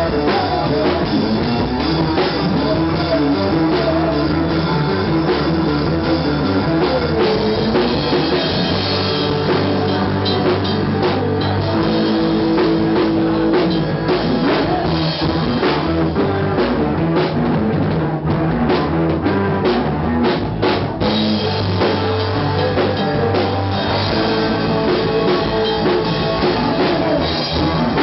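A rock band playing live, with drum kit and guitar.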